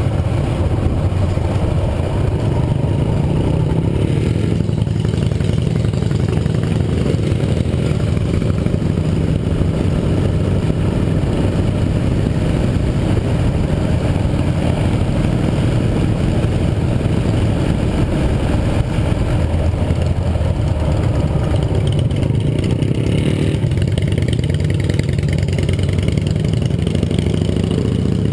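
Yamaha XT 660R's single-cylinder engine running steadily.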